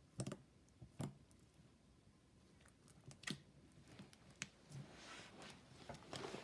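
Slime being squished and poked by hand, giving faint scattered clicks and pops, with a soft run of wet crackling near the end.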